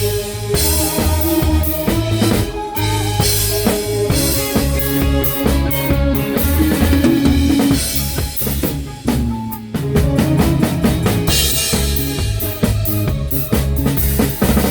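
Live band rehearsal: a drum kit keeping a steady beat with kick, snare and rimshots under bass and other pitched instruments playing a song. The band thins out briefly about nine and a half seconds in, then comes back in full.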